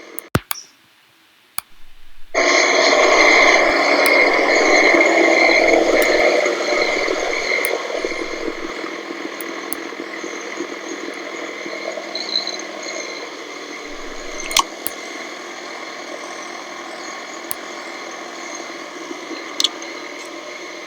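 Outdoor central air conditioner condenser unit running: a steady whooshing of fan and compressor noise that starts suddenly about two seconds in, is loudest at first, then settles lower. There are a few sharp clicks along the way.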